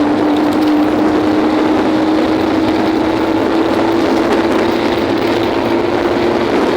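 Small motorcycle engine running at steady high revs under way, its pitch creeping slowly upward, over a rush of noise.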